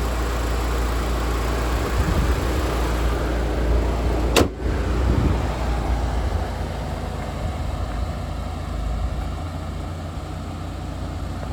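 Mitsubishi Lancer Evolution Tommi Mäkinen's turbocharged 2.0-litre four-cylinder idling steadily, its radiator cooling fans running normally. A single sharp knock about four and a half seconds in.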